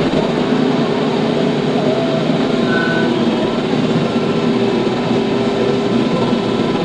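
TYM T574 tractor's diesel engine running steadily.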